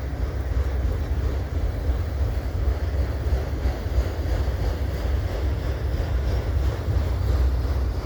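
Freight cars of a passing Canadian National mixed freight train rolling by, a steady low rumble of steel wheels on rail.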